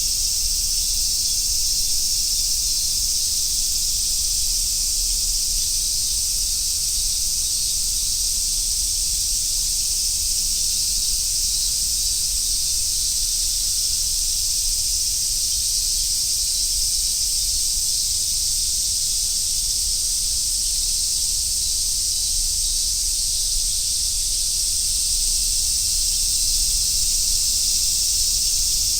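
Dense, continuous chorus of summer cicadas, a steady high-pitched sizzle with no breaks, over a low rumble.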